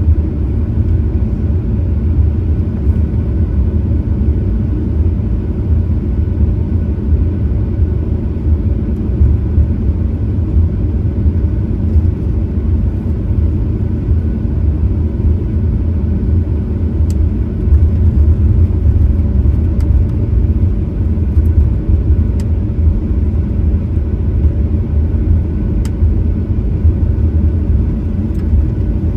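Steady low rumble inside the cabin of a Boeing 737-900ER, its CFM56-7B engines running evenly with no rise in pitch or level, with a few faint ticks.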